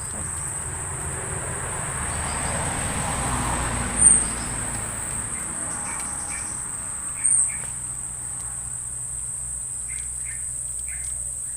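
A steady, high-pitched drone of insects, with a short louder pulse about four seconds in and again about seven seconds in.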